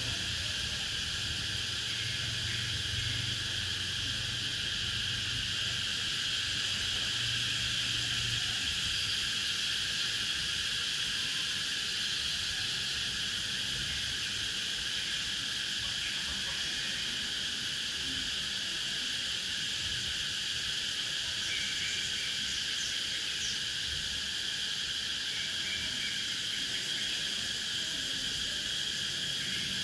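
Cicadas droning in a steady, continuous chorus.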